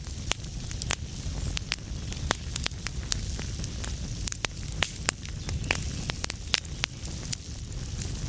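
Wood fire burning in a fireplace: a steady low rumble of flames under frequent, irregular sharp crackles and pops.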